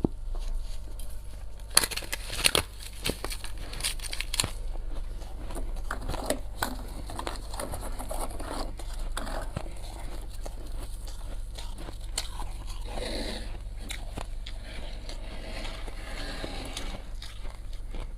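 Freezer frost and thin ice being bitten and chewed: crisp crackling crunches, with a cluster of sharp snaps about two to four seconds in.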